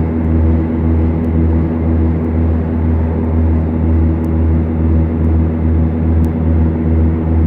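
Beechcraft Duchess twin-engine piston aircraft running steadily: a constant engine and propeller drone that pulses gently about twice a second.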